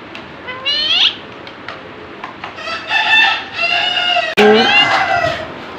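Pet parrot calling: a rising squawk about half a second in, then a run of harsh, pitched squawks in the second half, the loudest starting a little past four seconds.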